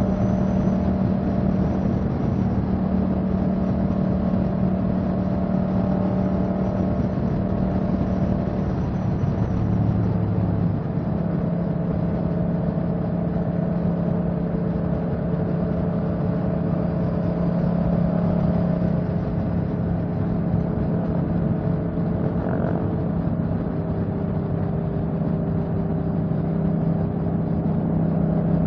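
Motorcycle engine running steadily at cruising speed, its pitch holding nearly level with only slight dips, over continuous wind and road noise.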